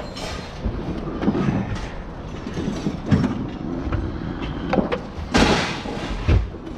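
Pieces of scrap metal being thrown and sorted off a truck load, a string of separate metal clanks and clatters.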